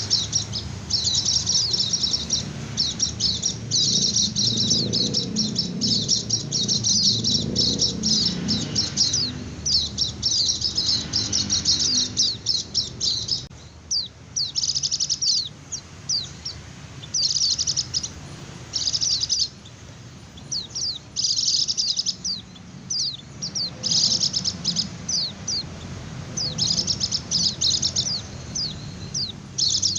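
White-eye (pleci) singing its rapid twittering 'ngecir' song of high, tightly packed chirps. The song runs almost unbroken at first, then comes in short bursts with brief pauses.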